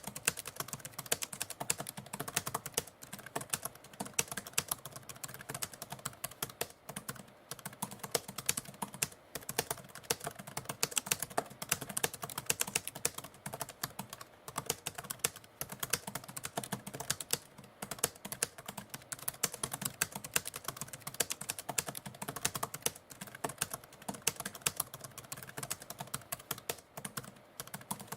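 Typewriter keys being struck in a continuous, rapid stream of clicks, like steady typing.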